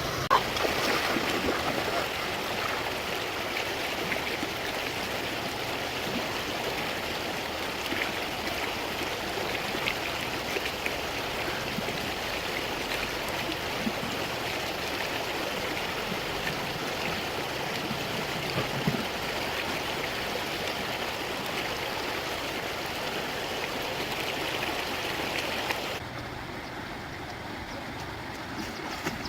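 Water of a stream running steadily, with a few small splashes. Near the end the flow becomes quieter and duller.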